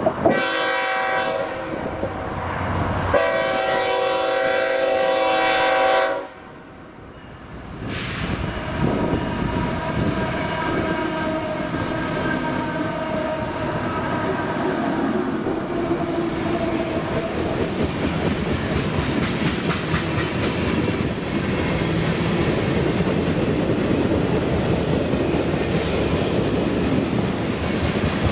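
Diesel freight locomotive's air horn sounding two blasts, a short one and then a longer one. After a brief drop, the freight train rolls past with a steady rumble and wheels clattering over the rail joints.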